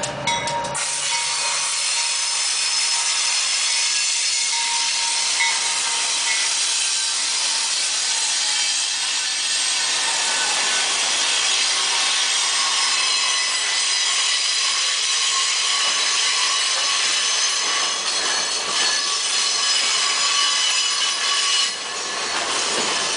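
Heavy iron ore freight train passing close by: a loud, steady grinding rush of steel wheels on the rails with faint high squealing tones, starting abruptly about a second in as the locomotives reach the camera and continuing as the loaded ore wagons roll past.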